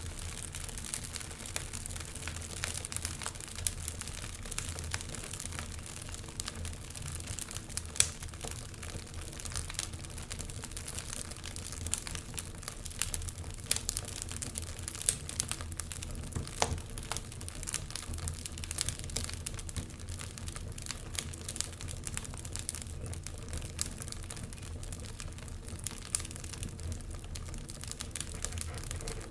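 Wood fire burning in a fireplace: a steady low rumble with irregular crackles and pops throughout, one pop noticeably louder about eight seconds in.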